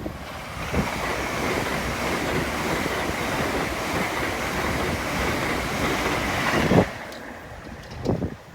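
A train passing through the level crossing at speed: a steady loud rush of wheel and air noise that cuts off abruptly near the end as the last carriage clears.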